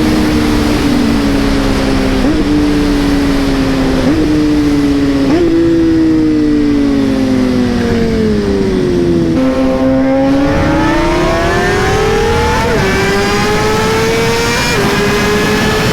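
Suzuki GSX-R 600's inline-four engine slowing with three downshifts, the revs jumping up at each one, then pulling hard again from about ten seconds in, with two upshifts as the revs climb. Heavy wind rush on the microphone underneath.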